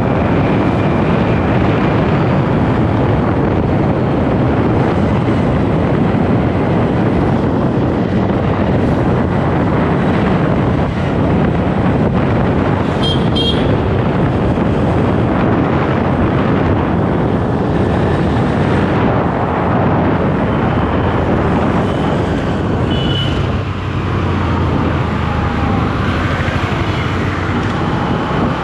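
Road noise on a moving motorcycle: a steady rush of wind and traffic noise. Brief high toots, like vehicle horns, come about halfway through and again a few seconds later.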